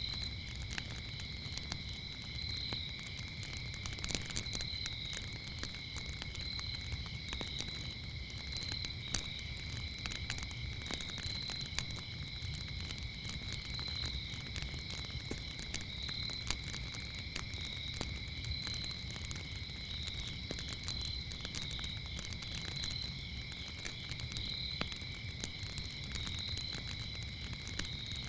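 Wood fire crackling with frequent small pops over a low rumble, while crickets trill continuously at two high pitches, the upper one swelling every couple of seconds.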